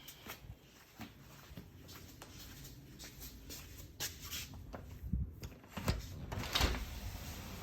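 A series of light clicks and knocks, with a few heavier thumps in the second half, like objects being handled or a cupboard or door being opened and closed.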